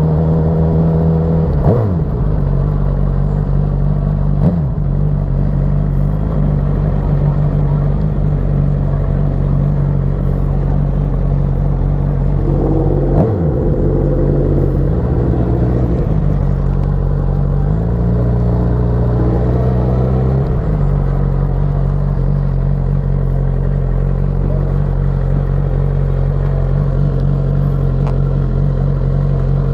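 Motorcycle engine running at a steady speed while riding, with brief sharp dips in revs about two, four and a half and thirteen seconds in. The engine note shifts between about sixteen and twenty-one seconds in, then settles back.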